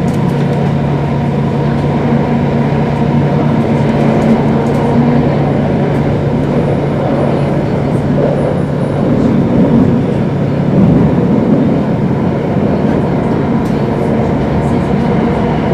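Singapore MRT Circle Line train running underground, heard from inside the carriage: a steady rumble of wheels on rail with a constant electric hum from the traction equipment.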